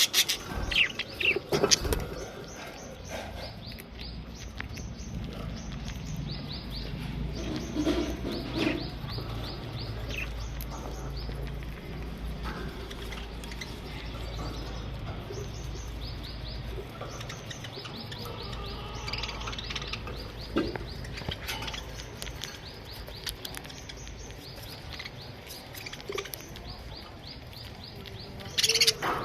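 A colony of budgerigars chirping and chattering continuously, with louder bursts of calls in the first two seconds and again near the end.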